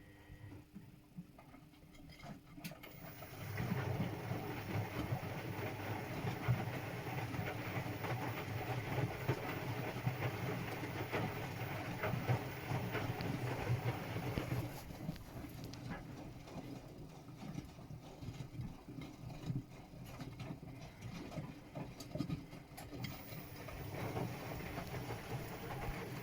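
Washing machine running a wash cycle, its drum turning with a low churning noise that starts a few seconds in and drops to a quieter level about halfway through.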